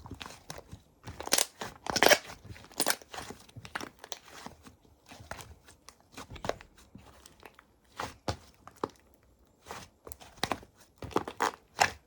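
Slime being squeezed and pressed by hand, giving irregular sticky pops and crackles with short quiet gaps, the loudest a few seconds in.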